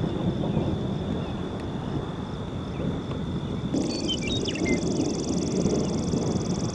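Outdoor ambience: a steady low rumble, with a high insect buzz that comes in about four seconds in and holds. A few short bird chirps come just after it starts.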